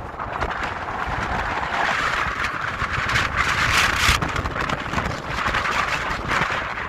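Wind buffeting the microphone outdoors, an uneven rumbling rush with gusts that swell and ease.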